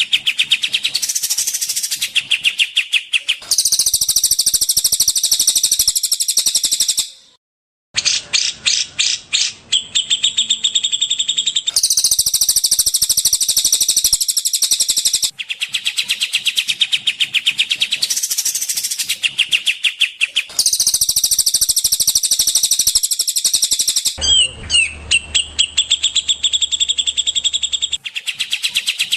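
Recorded songbird song: rapid, high-pitched trills and repeated chattering notes, spliced in blocks that change abruptly every few seconds, with a brief silent gap about seven seconds in.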